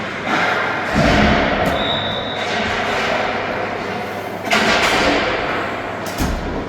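Ice hockey arena din with several heavy thuds against the boards, one about a second in, one past the middle and one near the end, and a short high whistle around two seconds in.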